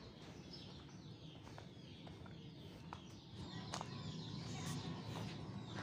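Small birds chirping, a series of short high calls that fall in pitch, with scattered clicks. Footsteps and handling noise grow louder in the second half.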